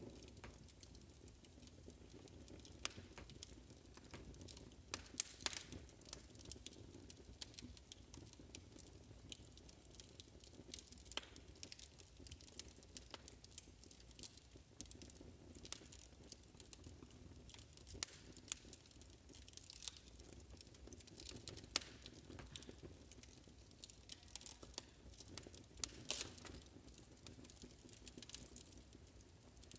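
Wood fire crackling in a fireplace: irregular sharp snaps and pops, a few louder than the rest, over a faint low steady rumble.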